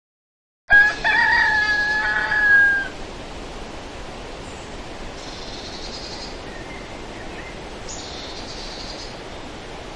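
A domestic cat gives one long meow, about two seconds, holding its pitch and dropping slightly at the end. A steady background hiss follows.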